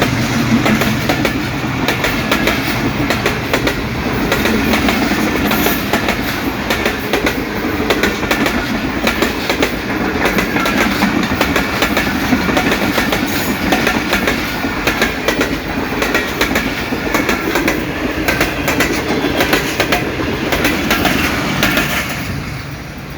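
Pakistan Railways passenger train rolling past on broad-gauge track, its wheels clattering steadily over the rail joints. The clatter eases a little near the end.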